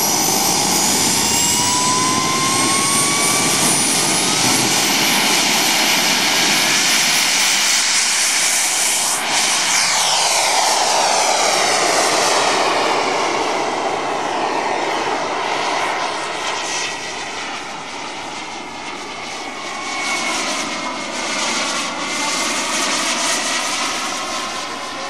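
Radio-controlled model jet flying past, a loud continuous jet whine with a rising tone in the first few seconds. It passes closest about ten seconds in, dips, comes round once more, and fades near the end.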